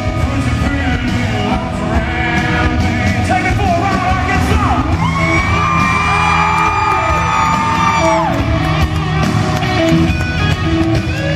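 Live country-rock band playing loudly with singing, the crowd yelling along. A long note is held from about five seconds in and drops away just after eight seconds.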